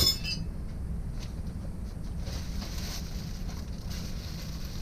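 Scooter spare parts being handled: a brief metallic clink with a short ring at the start, then soft rustling of packaging over a steady low background rumble.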